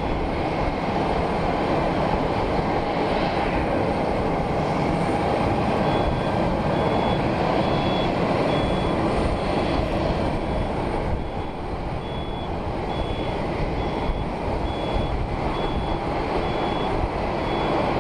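Jet airliner engines at takeoff power: a loud, steady rush of engine noise with no break, dipping slightly about two-thirds of the way through.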